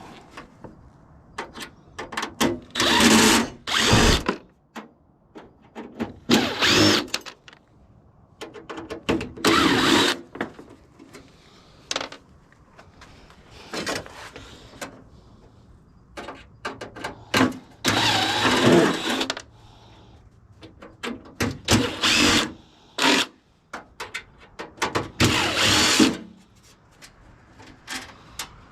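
Power drill/driver run in repeated short bursts of one to two seconds, its motor whining up and down, driving out screws from a water heater's casing.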